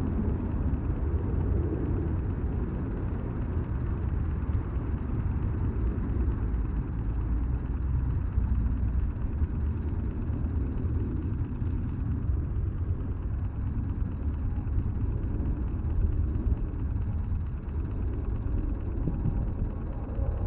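Wind rumbling on the microphone: a steady, uneven low rumble with no clear tone.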